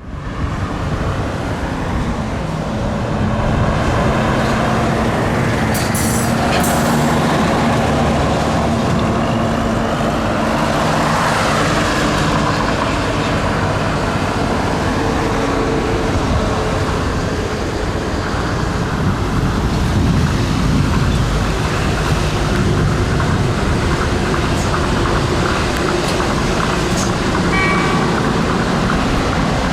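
Tokyo Monorail 10000 series train running on its track: a steady rumble and hiss with a low, even hum, and a few faint clicks about six seconds in.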